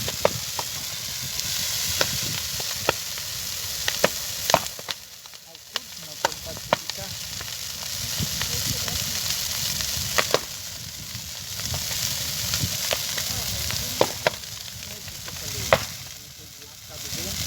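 Large bonfire burning: a steady rushing hiss with sharp crackles and pops scattered through it, briefly quieter about five seconds in and again near the end.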